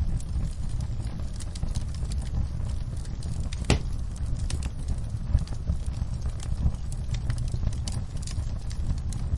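Wood fire crackling, with scattered sharp pops and snaps over a low steady rumble; one louder pop about four seconds in.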